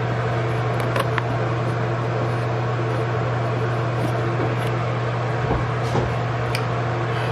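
Steady low mechanical hum with a constant low drone, with a few faint clicks about a second in and again near the end.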